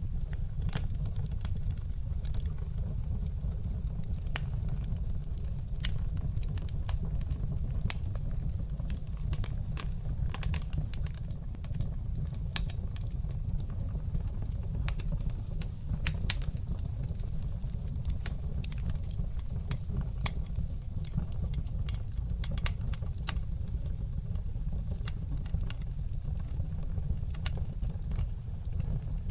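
Fire burning in a fireplace, crackling with many irregular sharp pops over a steady low rumble.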